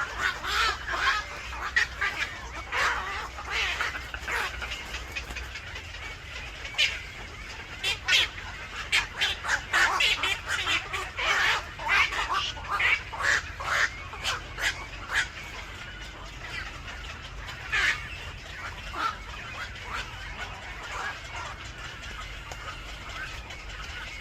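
Many short, harsh bird calls in quick runs, busiest in the middle and thinning out over the last third.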